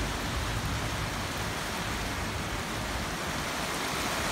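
Steady rain falling on wet paving, an even hiss with no breaks.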